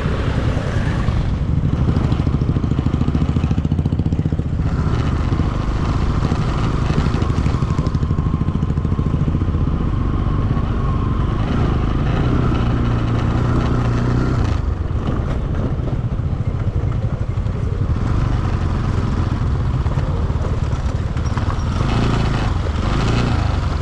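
Motorcycle engine running under way, a steady low drone with rapid firing pulses; the engine note holds steadier for a couple of seconds about halfway through.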